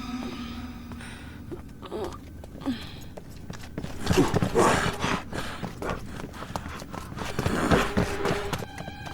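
Cartoon sound effect of rapid clattering footfalls, like something running, with scattered knocks that grow busier about four seconds in.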